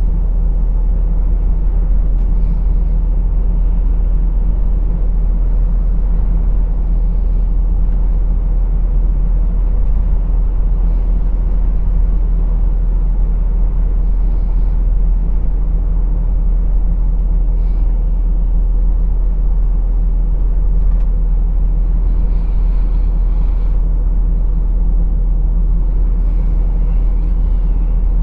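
Truck's diesel engine and road noise heard from the cab, a steady low drone with no change in pace, with faint brief higher sounds every few seconds.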